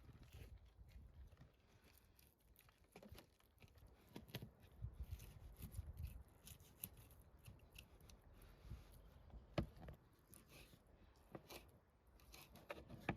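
Faint handling noises: scattered small clicks, snips and rustles, the loudest a sharp click near the end.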